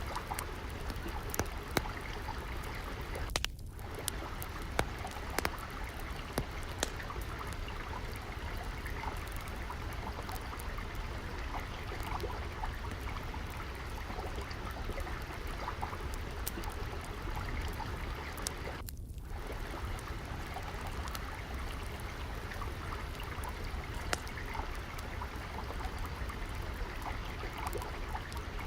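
Water trickling and flowing steadily, with the scattered sharp crackles and pops of a wood fire burning in a fireplace over it. The flowing water dips briefly twice.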